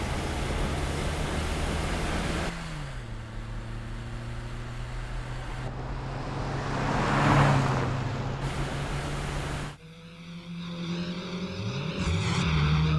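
Cartoon sound effects of a car engine running. Its pitch drops about two and a half seconds in, and a rushing swell peaks a little past the middle.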